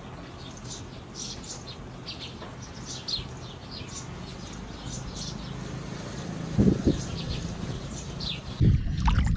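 Small birds chirping repeatedly over a steady low rumble, with two dull thumps about two-thirds of the way in. Just before the end the sound switches to a louder low rushing.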